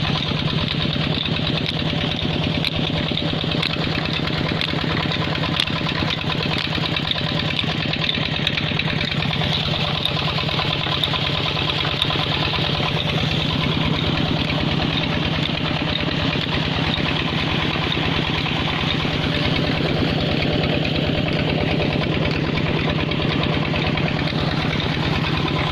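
Peter stationary diesel engine driving an irrigation water pump, running steadily at an even pace with a regular chugging beat.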